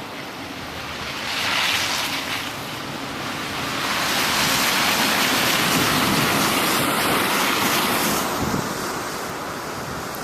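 Blizzard wind gusting over the microphone as a rushing noise, swelling briefly about two seconds in and again for several seconds in the middle before easing off.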